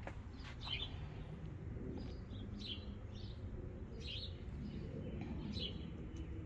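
Small birds chirping: short, high chirps repeated irregularly, about one or two a second, over a low steady outdoor rumble.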